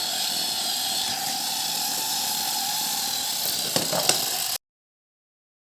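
Small electric motor and gears of a toy tractor whirring steadily, with a couple of light clicks near the end before the sound cuts off abruptly.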